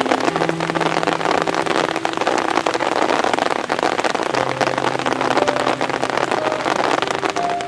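Heavy rain, a dense steady patter of many drops.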